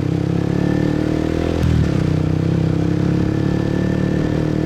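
Motorbike engine running steadily under the rider while riding through the streets, with a brief dip in engine note about one and a half seconds in.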